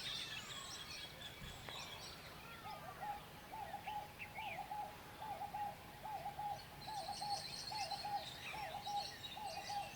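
Wild birds calling: from about three seconds in, a low hooting call repeats in a quick, even series, about three calls every two seconds, while smaller birds chirp and sing higher up.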